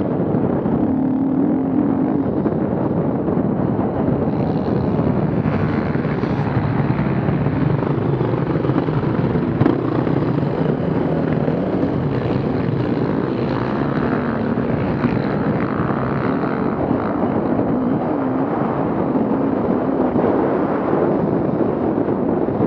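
Off-road vehicle engines running continuously, their pitch rising and falling as they are worked.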